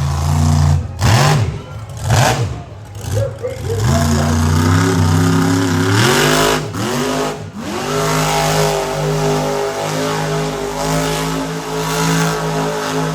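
Monster truck engine revving hard. The pitch climbs and drops in quick throttle blips for the first several seconds, then the engine is held at high revs for about six seconds.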